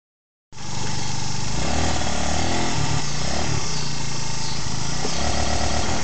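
GY6 scooter's single-cylinder four-stroke engine running, its pitch wavering a little, starting about half a second in.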